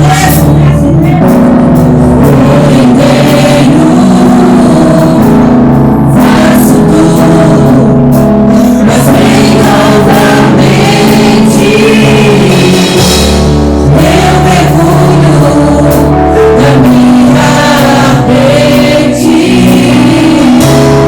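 Live gospel worship music: a band playing while the congregation sings, loud and continuous.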